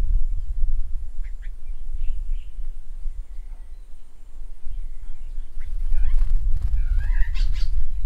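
Birds calling: a few short chirps about a second in, then a louder run of warbling, whistled calls near the end, over a continual low rumble.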